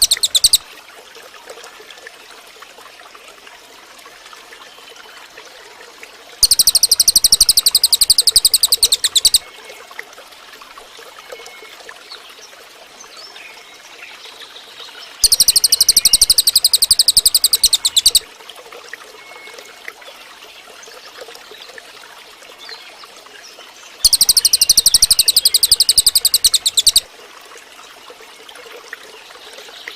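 A cililin bird singing loud bursts of rapid, evenly repeated very high notes, each about three seconds long and coming roughly every nine seconds. A quieter background of faint chirps and a trickle of water runs between them.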